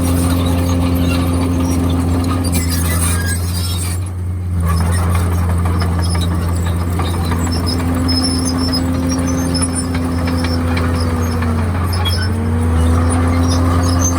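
Komatsu D51PX bulldozer running steadily, a low diesel drone with a higher whine over it. The whine fades out about three seconds in, returns about halfway through, and near the end dips in pitch briefly before climbing back.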